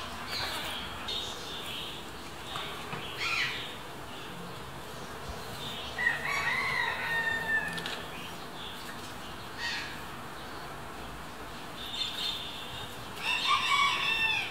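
Birds calling in the background: scattered short calls, a longer call about six seconds in and a louder cluster of calls near the end.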